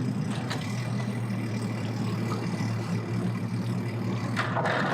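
An engine idling steadily with an even low hum, with a short rush of noise near the end.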